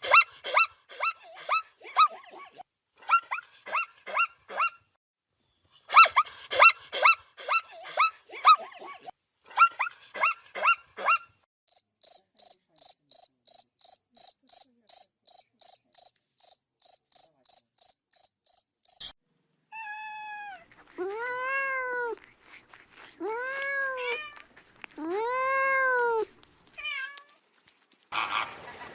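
A sequence of animal calls. Bursts of quick, short chirps come first, then an even, high, pulsed chirping typical of a cricket for about seven seconds, then a cat meowing three or four times.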